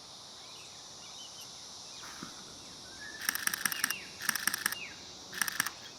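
Nikon Z50 II's shutter firing in three rapid bursts of clicks, starting about three seconds in, the last burst the shortest. A steady insect drone runs underneath.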